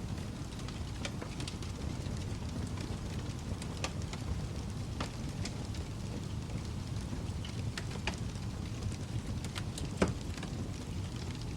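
Wood fire in a fireplace burning with a steady low rumble and scattered crackles, with one louder pop about ten seconds in.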